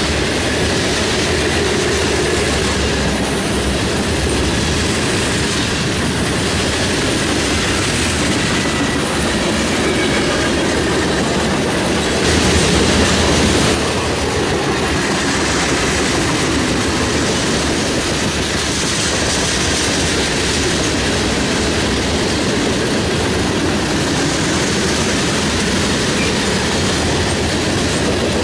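Union Pacific grain train's covered hopper cars rolling past, a steady rolling rail noise with a brief louder stretch about halfway through.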